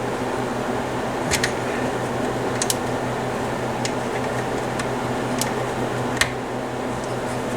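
Steady hum and fan noise of a room heater running, with a few scattered sharp clicks.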